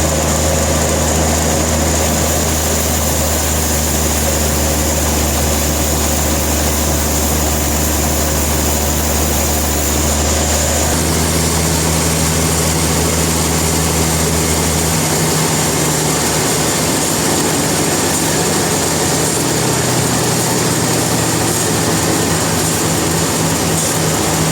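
Sawmill machinery running steadily with a constant hiss and a low engine hum that shifts in pitch about eleven seconds in and again about fifteen seconds in.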